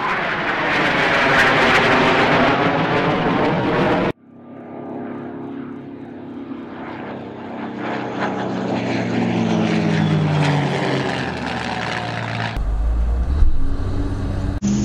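Airplane engine sound effects: a loud aircraft fly-by rush that cuts off abruptly about four seconds in, then a propeller-plane engine running with its pitch slowly falling. A deep engine rumble cuts in near the end.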